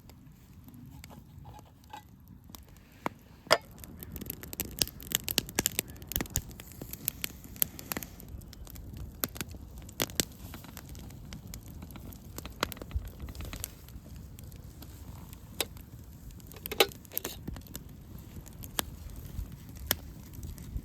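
Campfire crackling, with irregular sharp pops of burning wood, thickest a few seconds in and again near the end.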